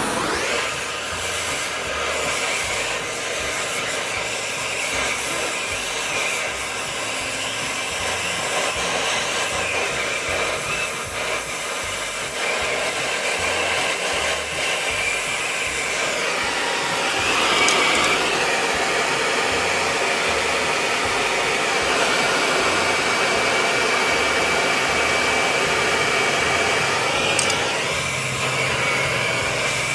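Gas torch flame, the 'smoky wrench', burning with a steady hiss as it heats a steel pipe for bending. It grows slightly louder a little past halfway.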